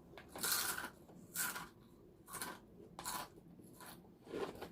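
A crunchy potato chip snack being bitten and chewed with the mouth close to the microphone: about five sharp crunches, roughly one a second.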